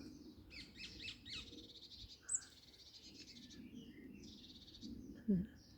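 Garden birds singing and chirping, several overlapping songs of quick high notes and trills, with one sharp high note about two seconds in. A brief low sound comes near the end.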